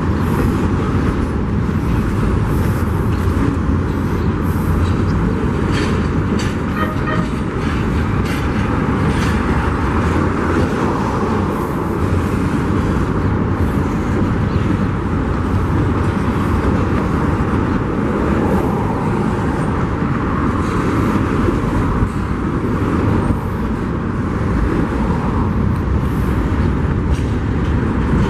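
Union Pacific freight train's cars rolling past, a steady rumble of steel wheels on the rails.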